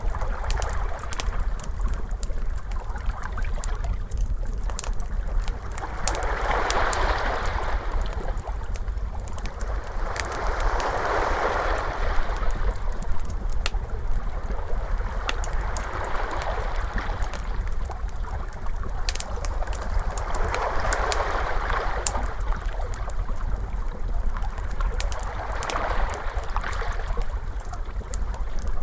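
Crackling fire with scattered sharp pops, over ocean waves washing in, a wave swelling and fading about every five seconds, on a steady low rumble.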